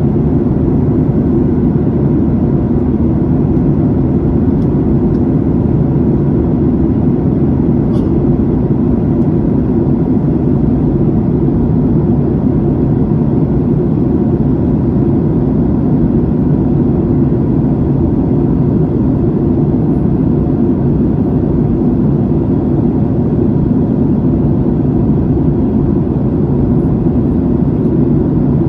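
Steady in-flight drone of an aircraft cabin: a constant, deep rush of engine and airflow noise that holds even throughout.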